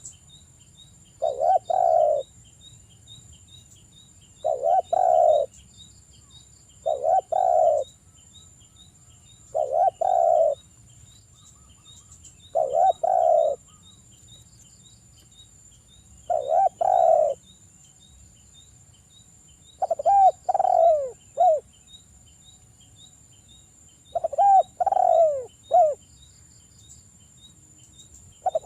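Spotted dove (derkuku) cooing repeatedly: a loud two-to-three-note coo phrase about every three seconds, the later phrases clearly three notes with falling tails. A faint steady high whine and quick regular ticking run underneath.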